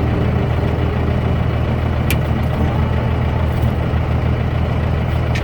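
Diesel pickup truck engine idling steadily, with a single short click about two seconds in.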